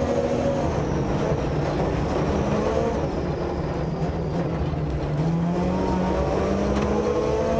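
Mazda RX-7's rotary engine heard from inside the cabin on a rally stage at speed, its pitch climbing and dropping several times with throttle and gear changes, over steady road and tyre noise.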